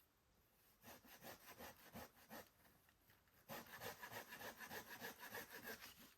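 Hand saw cutting through wood in quick back-and-forth strokes, about four or five a second. It runs in two bouts, with a short pause in between and the second bout louder.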